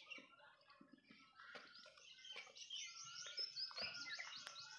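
Birds chirping faintly in the bushes, many quick, overlapping short calls that get busier about a second and a half in.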